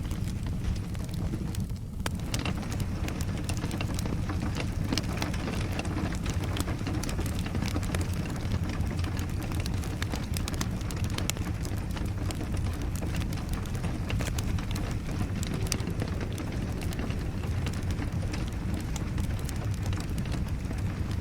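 Steady rain mixed with a crackling wood fire: a dense, even hiss and low rumble dotted with many small pops and snaps.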